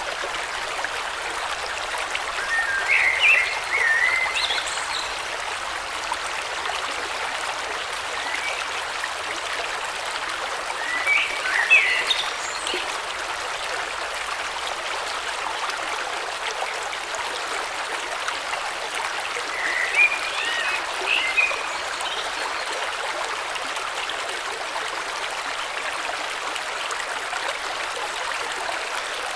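A river flowing with a steady rushing sound, while a bird calls in three short bursts of chirping, about three, eleven and twenty seconds in.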